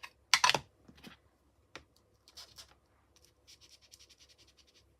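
Colouring tool rubbed over embossed cardstock in quick, repeated short strokes, about five or six a second in the second half, with a louder scrape near the start.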